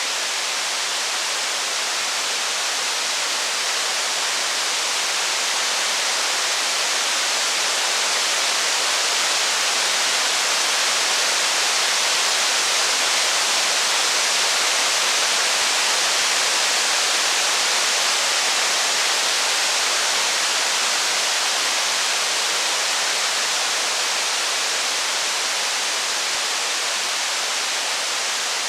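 Steady heavy rain, an even hiss that swells slightly in the middle.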